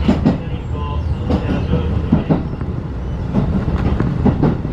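Running noise heard inside a 35-series passenger coach on the move: a steady low rumble with irregular sharp clicks and knocks from the wheels over rail joints.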